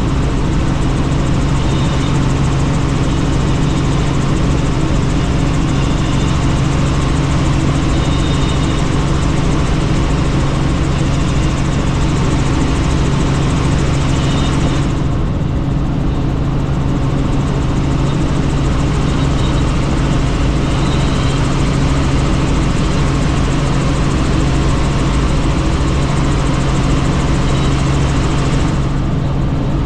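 Helicopter in flight heard from inside the cabin: steady turbine and rotor drone with a constant low hum under a wide rush of air. The upper hiss dips briefly about halfway through and again near the end.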